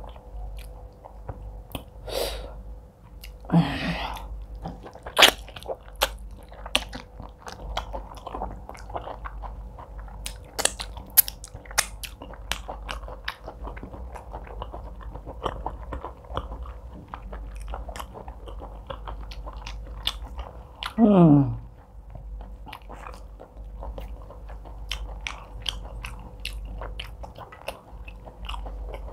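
Close-miked chewing and mouth sounds of a person eating fufu with egusi soup, fish and meat, with many small clicks and crunches. About 21 seconds in comes a short vocal sound that falls in pitch.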